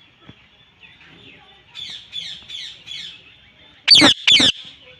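Ringneck parrot (rose-ringed parakeet) calling: soft chirps, a run of four quick falling chirps, then two loud shrill screeches about four seconds in.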